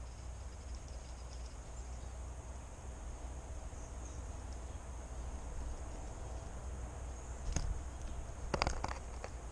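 Outdoor ambience with a thin, steady high insect-like trill, and a few soft knocks and taps about seven and a half seconds in and near the end.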